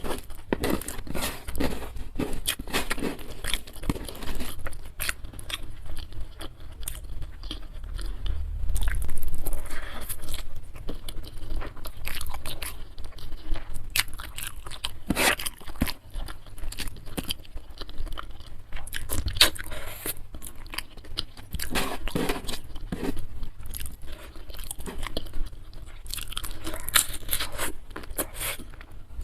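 Close-miked chewing and biting, with irregular crunches and clicks. A dull low bump about nine seconds in is the loudest moment.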